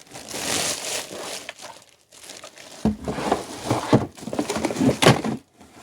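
Plastic packaging crinkling and rustling as vacuum cleaner parts are unwrapped, with several sharp knocks of plastic parts being handled in the second half.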